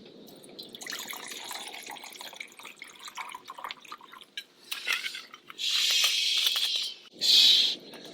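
Sake being poured out into a vessel for warming: soft gurgling pours at first, then two louder, splashier pours near the end.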